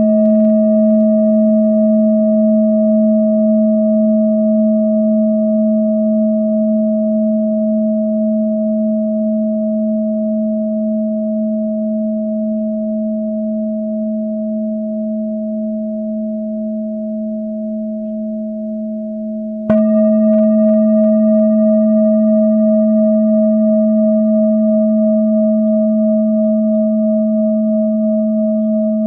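Singing bowl ringing after a strike, its low hum and higher overtones slowly fading with a gentle wavering. It is struck again about two-thirds of the way through and rings on.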